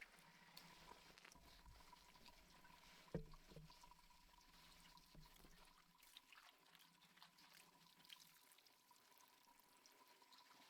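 Near silence: faint scattered clicks and a single soft knock about three seconds in.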